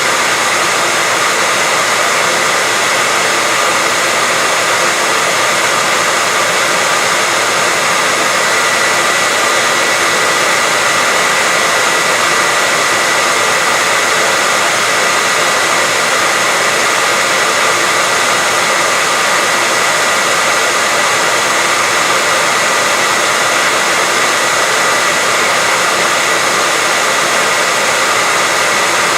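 Continuous white-noise hiss, steady and unchanging, with a faint high whine held inside it.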